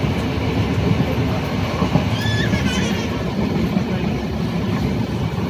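A moving passenger train's running noise heard from inside the coach: a steady, loud rumble of wheels on the rails. A brief high squeal with a rising and falling pitch comes a little over two seconds in.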